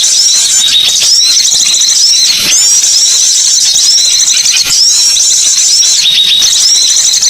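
Loud, dense, high-pitched chirping of small songbirds played as a bird-lure call, short arched notes repeating over and over without a break.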